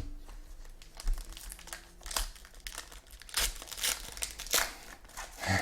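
Plastic-foil trading-card pack wrapper crinkling and tearing as it is ripped open and handled, in irregular rustles that get louder in the second half.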